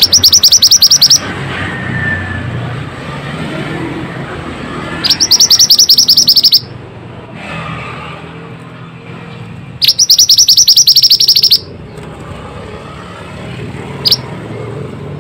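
Pied bushchat song: three loud, fast trills of rapidly repeated high notes, each lasting about a second and a half and coming roughly five seconds apart, then one short high note near the end. A low steady rumble runs underneath.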